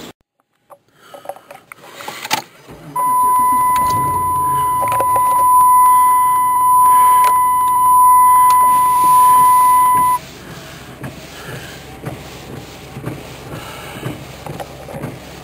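A loud, steady electronic beep tone at one pitch, held for about seven seconds and then cut off suddenly, over low vehicle rumble and a few knocks and clicks.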